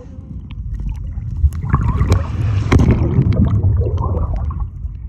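Muffled low rumble of water churning and sloshing against the microphone, with scattered sharp clicks and splashes, as of wading into surf.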